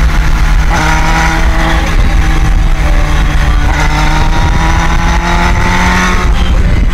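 Motorcycle engine running while riding, with a heavy low rumble; the engine note climbs about a second in, eases off, then climbs again from about four seconds until shortly before the end.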